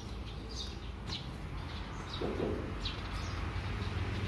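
Birds chirping in short, falling calls, one every half second or so, with a lower call about two seconds in, over a steady low hum.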